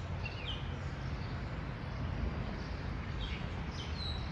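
Pondside outdoor ambience: a steady low rumble with a few short, high bird chirps, one about half a second in and two more near the end.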